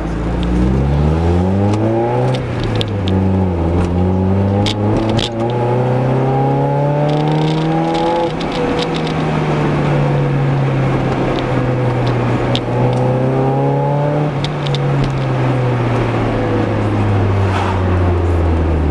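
Mazda MX-5's four-cylinder engine heard from inside the car, accelerating through the gears. The pitch climbs, drops at a gear change about two seconds in, and climbs again until about eight seconds in. It then holds steady and slowly falls as the car cruises and eases off.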